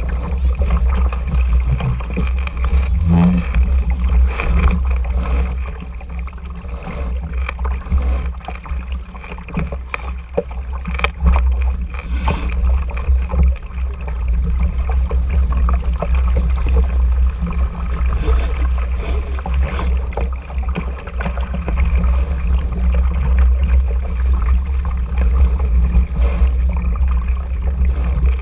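Steady, strong wind rumble on a GoPro Hero 4's microphone, mixed with water rushing past an RS Tera sailing dinghy, and brief sharper noises now and then.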